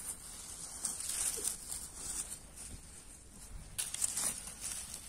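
Irregular rustling and crinkling of leaves and plants being handled and stepped through while wild greens are picked.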